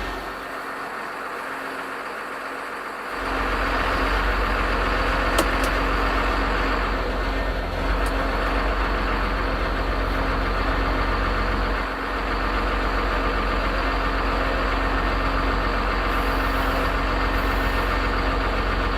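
An engine running steadily at idle, with a dense low pulsing rumble that is softer for the first three seconds and then steps up louder.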